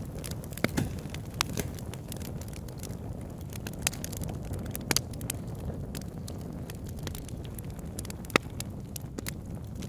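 Wood fire burning in a fireplace: a steady low rumble and hiss, with scattered sharp crackles and pops, the loudest pop about eight seconds in.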